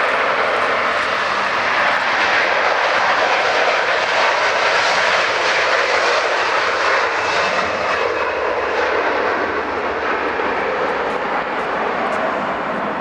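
Airliner's engines running loud and steady as the aircraft passes, easing off slightly toward the end.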